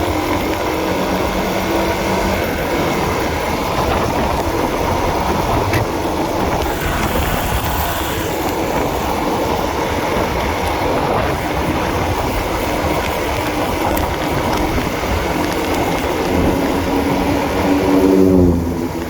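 Honda CB150R single-cylinder motorcycle engine running while riding, its pitch shifting with the throttle over a steady rushing noise, and the revs falling away near the end.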